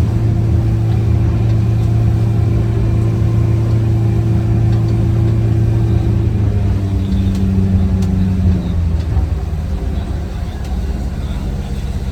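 Fishing boat's engine running steadily under way. About halfway through its note changes, and it runs a little quieter after that.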